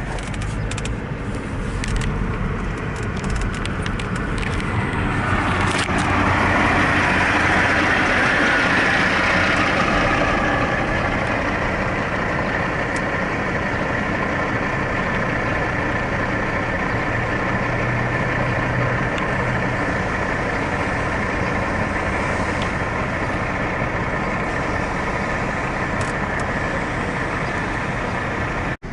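Steady motor-vehicle noise of engines and traffic. It grows louder from about five seconds in, is loudest around seven to ten seconds, then settles back to a steady level.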